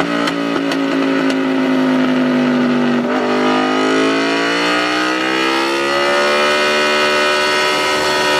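Aprilia RSV4 Factory's 65° V4 engine, breathing through a Racefit slip-on exhaust, running loud and steady at high revs on the dyno. Its pitch sags slightly, climbs from about three seconds in, then holds steady.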